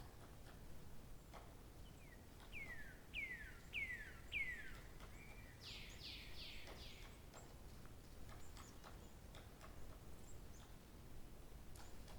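A songbird singing one phrase: four downslurred whistled notes at about two a second, ending in a quick run of higher buzzy notes, over faint outdoor background noise.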